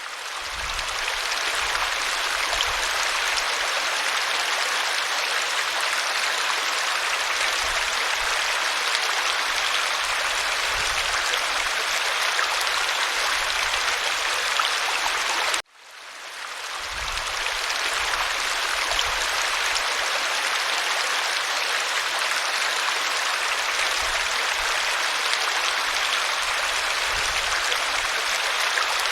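Waterfall rushing in a steady, dense hiss of falling water. About halfway through it cuts out suddenly and fades back in, as a looped recording restarting.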